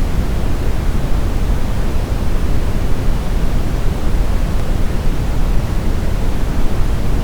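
Steady, unbroken brown noise: a smooth, deep rumbling hiss, loudest in the low end and falling away towards the treble, with no events or changes.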